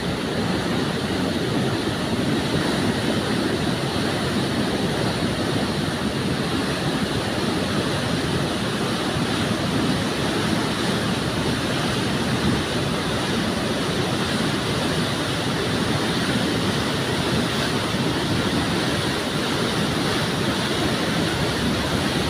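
Fast-flowing mountain river rushing steadily, a dense, unbroken roar of white water.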